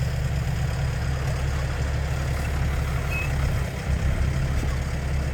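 Heavy diesel engine running steadily at low revs, a deep continuous rumble, with a brief high chirp about three seconds in.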